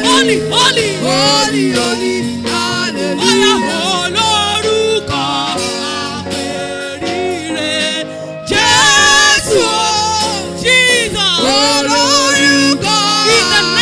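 Gospel worship singing with instrumental backing: a voice sings a melody over held keyboard-like chords, pausing briefly about halfway through before coming back in.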